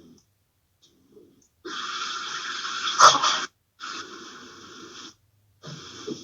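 Three bursts of hissing, breath-like noise, the first about two seconds long with a sharp click near its end.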